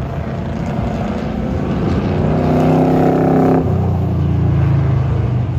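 Race car engine accelerating hard at full throttle, its pitch climbing steadily. About three and a half seconds in the pitch drops abruptly as it shifts up a gear, and then it pulls again.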